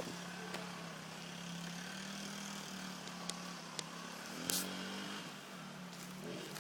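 1982 Honda 80 minibike engine running steadily, its pitch wavering up and down a little, with a few sharp clicks over it.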